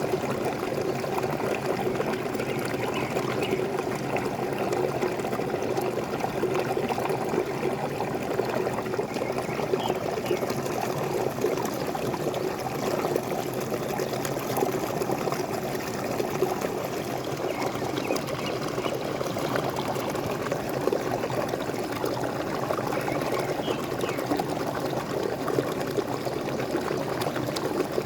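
Small waterfall: water pouring and splashing steadily over rocks, an even rushing with no breaks.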